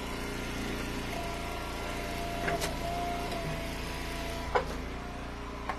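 Engine of a firewood wood splitter running steadily, with a higher steady whine for a couple of seconds and a few sharp knocks of wood.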